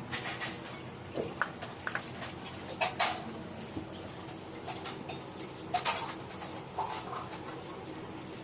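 Spoon and bowl clinks and scrapes as curd is spooned into flour for tandoori roti dough. Scattered knocks, the loudest about three and six seconds in.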